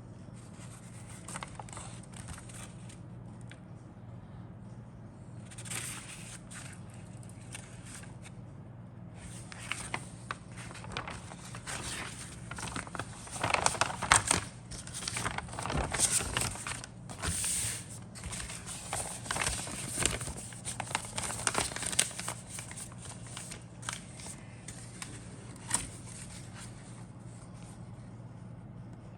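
Model-kit packaging crinkling and rustling as the contents are handled, in irregular bursts that are loudest about halfway through, over a steady low hum.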